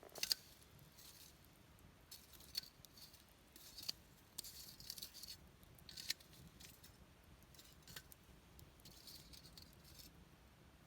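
Wood campfire crackling faintly, with sharp pops at irregular intervals. The loudest pop comes right at the start.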